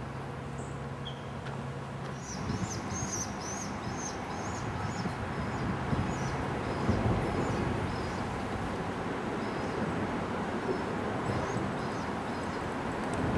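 Outdoor ambience: a steady rushing noise, with birds chirping in many short, high calls starting about two seconds in. A low steady hum stops just before the chirping begins.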